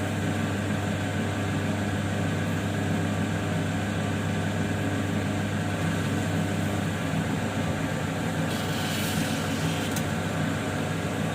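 Lapidary grinding wheel's motor running with a steady hum, with a brief hiss about eight and a half seconds in.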